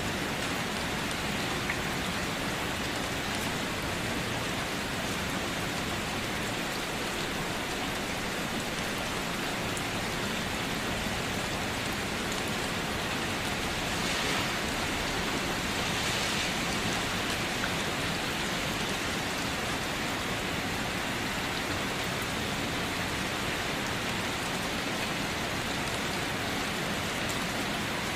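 Steady rain falling on a surface, an even hiss with scattered drop ticks, swelling slightly about halfway through.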